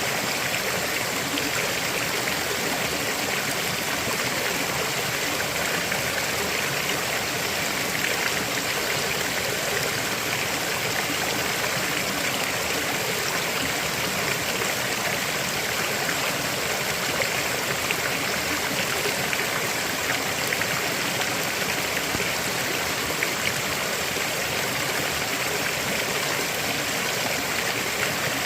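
River water flowing steadily over rocks, a constant rushing and splashing without pauses.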